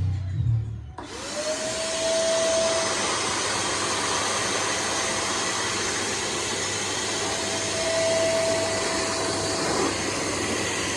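Nunix wet & dry vacuum cleaner switched on about a second in: the motor spins up quickly to a steady whine over a loud rush of air, then runs at constant speed, used as a blower.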